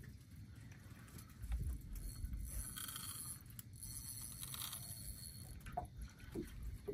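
Fishing reel being cranked during a fight with a hooked mulloway, its fine ticking heard for a couple of seconds over low rumbling handling noise.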